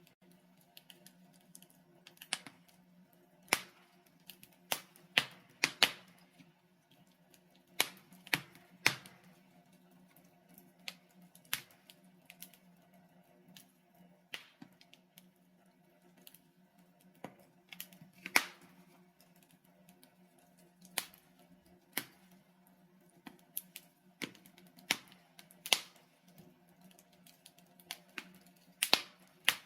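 Wood fire crackling in a fireplace: burning logs give off irregular sharp pops and snaps, a few much louder than the rest, over a faint steady low hum.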